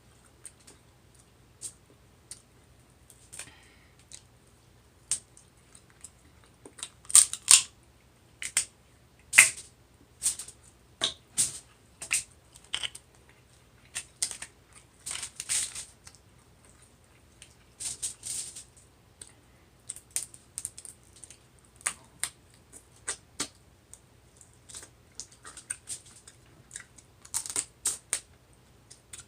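Close-miked eating of a seafood boil: irregular wet clicks, smacks and short crackles of chewing and handling shellfish, some in quick clusters.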